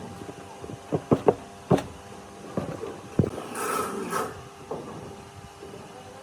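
Workshop handling sounds: a few sharp knocks and clicks, then a short hissing rush about halfway through, over a faint steady hum.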